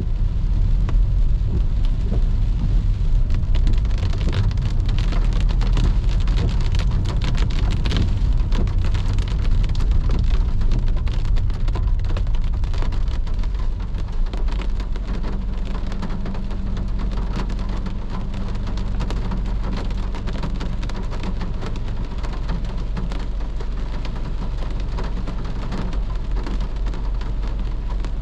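Heavy rain pattering densely on a moving car over a steady low road and engine rumble, the patter easing slightly about halfway through.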